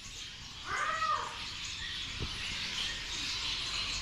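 A bird gives one drawn-out call that rises and falls, about a second in, over steady chirping from many birds in the aviary. There is a short click a little after two seconds.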